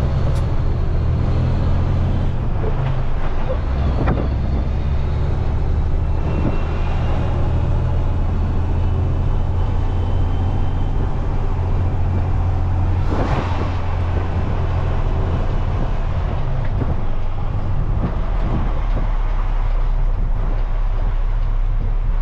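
Semi-truck diesel engine running while driving under a heavy load, heard steadily from inside the cab, its pitch shifting a couple of times. A short rush of noise comes about thirteen seconds in.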